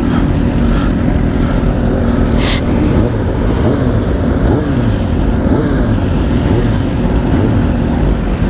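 Superbike engine running under way, its pitch rising and falling several times with the throttle, over a steady low rush of wind and road noise. A short hiss comes about two and a half seconds in.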